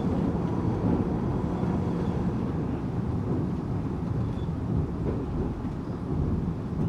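Steady low rumble of a Tokyu 8500 series electric train running, heard from inside the car: wheels on rail and the car body, with no clear motor whine standing out.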